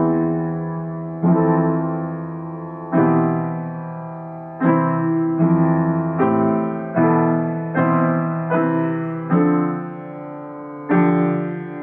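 Slow, improvised solo piano: chords struck about once a second or so, each left to ring and fade before the next.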